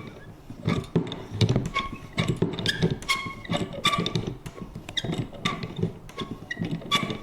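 Vintage paper punch worked over and over: about two knocks a second from the punch, with short creaks and squeaks from its mechanism in between.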